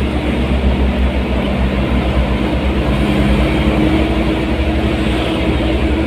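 Vehicle on the move: steady engine running with road noise, a constant low rumble and a faint engine hum.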